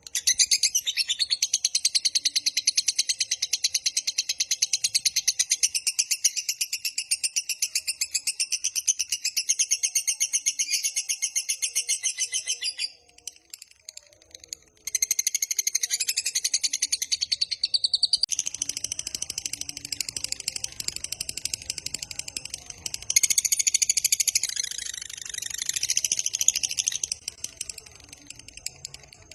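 Lovebird singing its long 'ngekek': a fast, continuous high-pitched chatter of rapidly repeated notes. It breaks off for about two seconds about halfway through, then resumes and falls away near the end.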